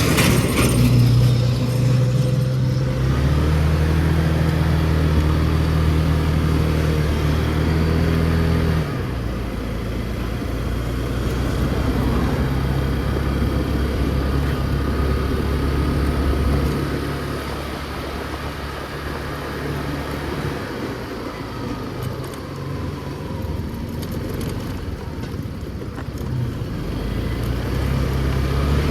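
Motor scooter's small engine running while riding in traffic, its pitch stepping up and down with the throttle: it holds high for several seconds, eases off and quietens past the middle, then picks up again near the end, over steady road and wind noise.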